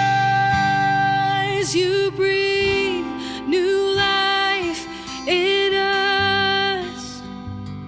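Worship music: a singer holding several long notes over acoustic guitar accompaniment.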